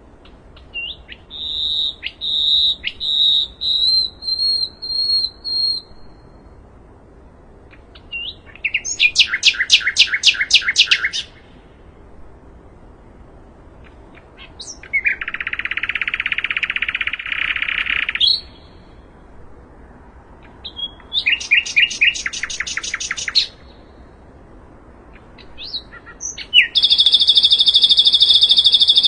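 Sikatan londo, a flycatcher, singing in separate phrases with pauses between them. First comes a run of short whistled notes. Then a rapid clicking trill, a buzzy held note, a second rapid trill, and near the end a loud, steady, ringing phrase that keeps going.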